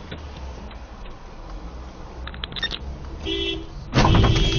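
Car horn honked twice, a short blast then a longer, louder one near the end, over a steady low hum of the car's cabin and engine.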